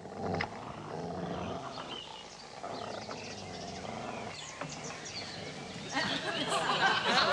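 Dogs growling and snarling as they tear at cloth, getting louder about six seconds in.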